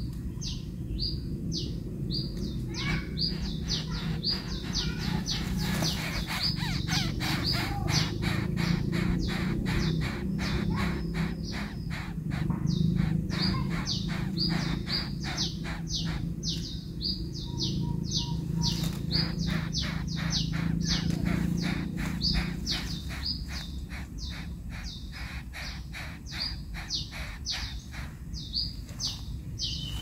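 A small bird chirping over and over: a long, fast series of short, high notes that each drop in pitch, several a second, with a couple of brief pauses. A steady low hum runs underneath.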